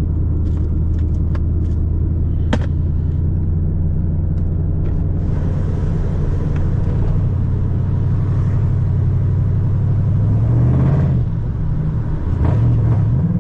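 Straight-piped 6.2-litre V8 of a 2010 Chevrolet Camaro SS droning steadily at cruise, heard from inside the car. Near the end the revs climb, drop back briefly, and climb again.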